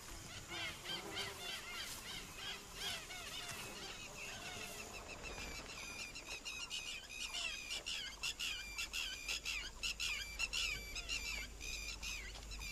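A chorus of wild birds calling, many short chirps and calls overlapping, growing busier about five seconds in.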